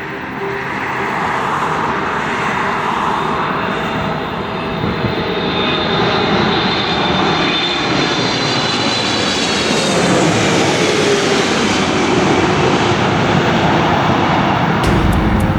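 Airliner on landing approach passing low overhead: engine noise builds, and a high whine slides down in pitch as the aircraft goes past, about ten seconds in.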